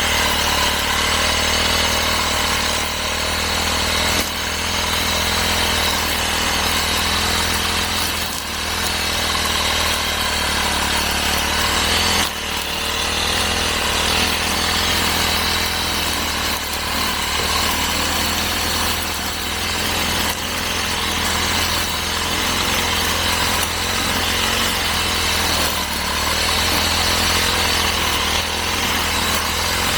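Brush cutter engine running steadily while cutting grass, with a couple of brief dips in level.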